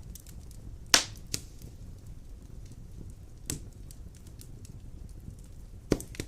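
Large logs burning in a fireplace: a low, steady fire noise broken by sharp crackles and pops. The loudest pop comes about a second in, with others in the middle and near the end.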